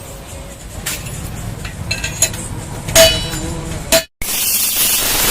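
Metal parts clinking and knocking together, with two sharp, ringing clinks about three and four seconds in. After an abrupt cut, a steady loud spraying hiss.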